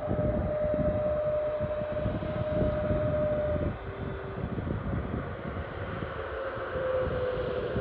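Airbus A321neo's twin Pratt & Whitney geared turbofan engines at takeoff power: a heavy rumble with an engine whine that drops away about four seconds in and returns, slightly lower, near the end.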